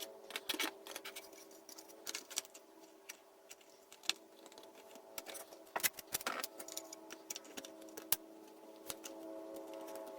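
Scattered sharp clicks and light knocks of 3D-printed plastic mask pieces and masking tape being handled while the pieces are taped together, over a faint steady hum.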